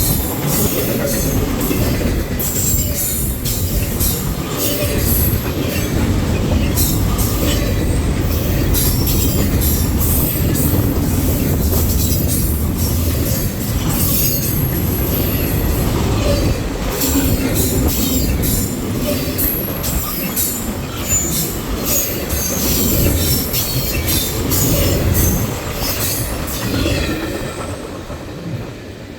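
Intermodal freight train rolling past at close range: a steady rumble of the cars with repeated sharp clicks of the wheels over the rail joints and a few brief high wheel squeals. It fades in the last couple of seconds.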